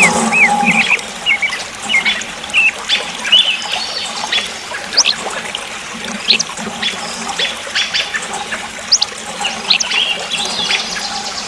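Water trickling and splashing, with many short high chirps and drips. A steady hum stops about a second in.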